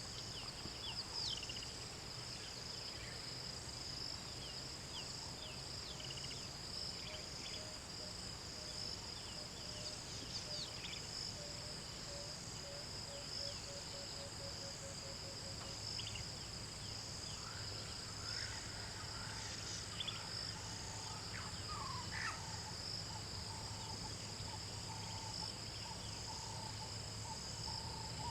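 Bush ambience dominated by a steady, high insect chorus of crickets trilling. Scattered short bird calls sound over it, with a run of evenly spaced low notes about halfway through, and a low steady hum underneath.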